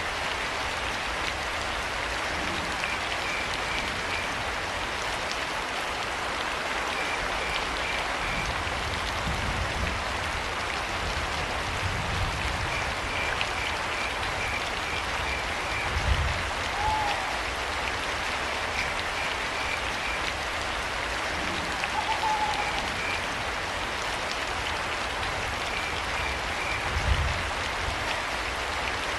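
Steady rain, with crickets chirping in short pulsed trills of a few beats each. Two brief higher calls come in the middle, and there are low thumps, one about halfway through and a stronger one near the end.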